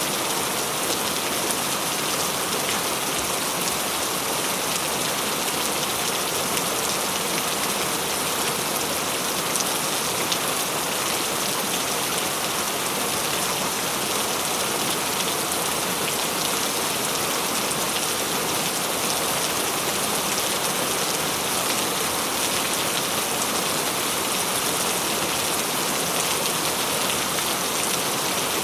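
Steady, even rain falling, a constant hiss of many fine drops with no change in strength.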